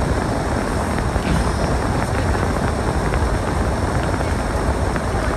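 Storm wind buffeting the microphone: a loud, steady, low rumble with no pauses.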